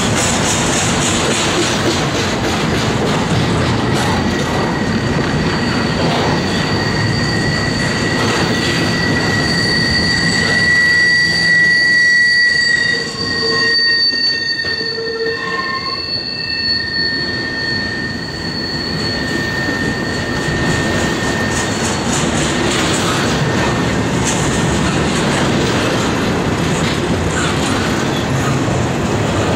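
Double-stack container train of well cars rolling past, wheels running over the rails with a steady rolling noise. A high, steady wheel squeal comes in a few seconds in, is loudest near the middle, and fades out about two-thirds of the way through.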